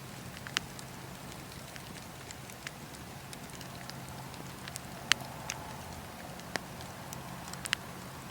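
Wood fire in a fireplace crackling: scattered sharp pops over a steady low hiss of burning, the loudest pop about five seconds in.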